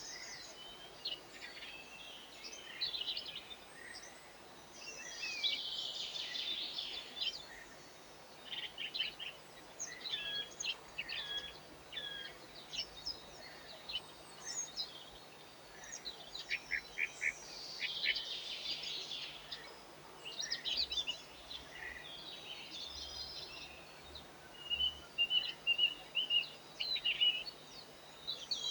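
Several small songbirds chirping and calling at once, with short overlapping chirps and trills throughout and a quick run of repeated high notes near the end, over a faint steady background hum.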